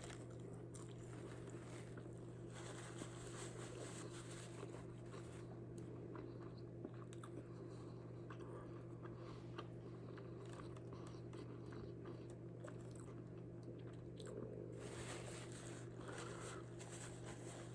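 Faint chewing and crunching of a hard-shell taco, with small crisp crunches scattered throughout over a steady low hum.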